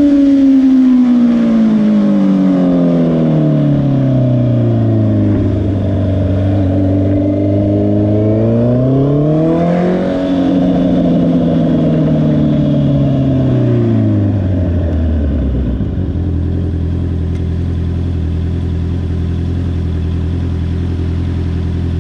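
2022 Honda CBR650R's inline-four engine slowing down, its pitch falling for the first few seconds. About nine seconds in there is a short rev, and from about fifteen seconds it settles to a steady idle.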